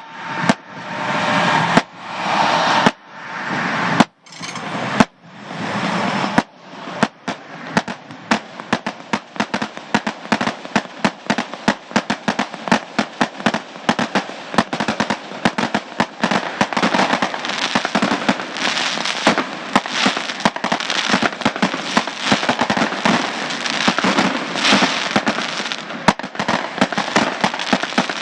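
Fireworks crackling: a loud hiss broken by several abrupt cuts over the first six seconds or so, then a dense, continuous crackle of rapid pops.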